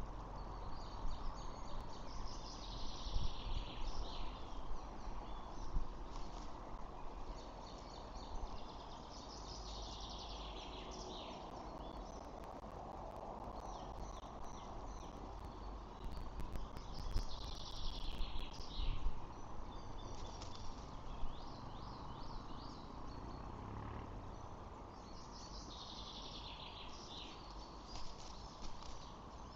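A songbird sings a short, high phrase four times, about every eight seconds, over steady outdoor hiss and a low rumble on the microphone.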